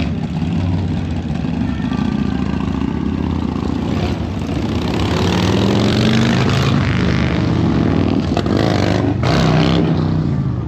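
A car engine running and accelerating: its pitch rises and it gets louder about halfway through, then eases off near the end.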